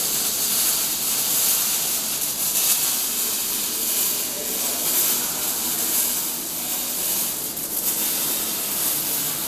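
Gas-shielded wire-feed arc welding: the arc gives a steady, dense hiss as a weld bead is laid.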